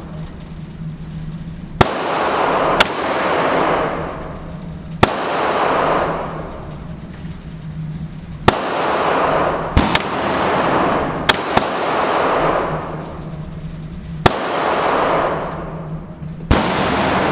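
Handgun shots fired one at a time at irregular gaps, about nine in all, each sharp crack followed by a long echo of the range.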